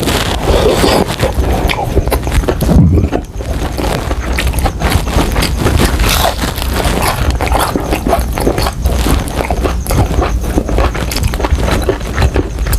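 Close-miked chewing and crunching of crispy fried chicken: a dense, irregular run of crackles and wet mouth clicks.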